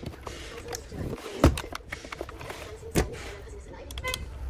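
Two sharp knocks about a second and a half apart, among lighter clicks and taps, with a brief short tone near the end.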